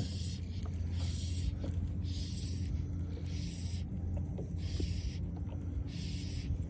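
Regular swishing strokes, about one every second and a bit, over a steady low hum.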